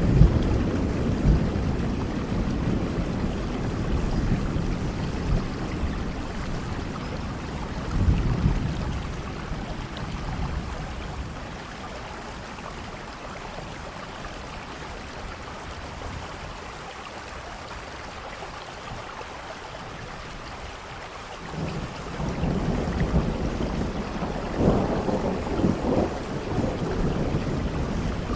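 Thunder rumbling over steady rain. A rumble dies away at the start and a shorter one comes about eight seconds in. Then there is a lull with only rain, and the thunder builds again about twenty-one seconds in, with louder peaks a few seconds later.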